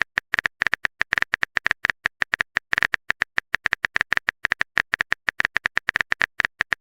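Phone keyboard typing sound effect: a rapid, uneven run of short clicks, several a second.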